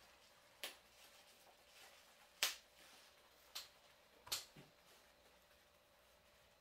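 Four sharp taps or clicks of small hard objects being handled, spaced irregularly over a few seconds, the second one the loudest, against a quiet room.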